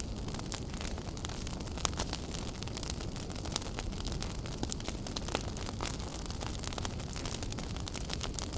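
Wood fire burning in a fireplace, a steady low rumble of the flames with frequent sharp crackles and pops from the burning wood.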